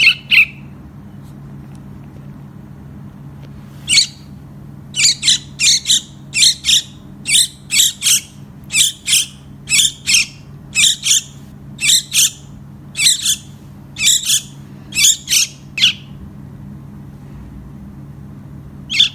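Baby bird begging to be fed: short, shrill cheeps, often in pairs, about two a second for some twelve seconds, with a pair at the start and another near the end. A steady low hum runs underneath.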